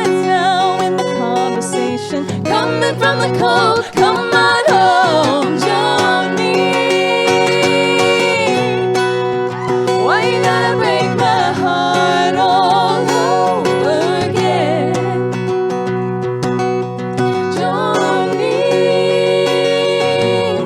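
Live song: a solo voice singing long held and sliding notes over a steady guitar accompaniment.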